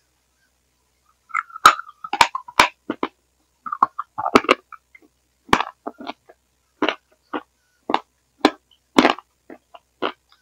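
Close-up eating sounds: wet mouth smacks and clicks from chewing a soft creamy dessert, in an irregular run of about two a second that starts about a second and a half in. A failing headphone microphone turns them into a distorted gurgling, which the uploader likens to a dying frog.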